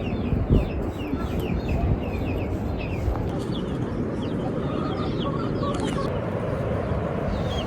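Chickens calling: many short, downward-falling peeps, a few each second, over a steady low rushing noise.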